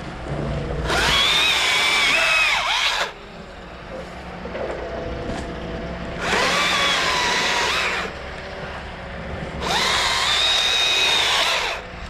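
Battery top-handle chainsaw, a Stihl MSA 161 T, making three short cuts of about two seconds each. Its electric motor whines up to speed at once and stops dead between cuts, with no idling in the gaps.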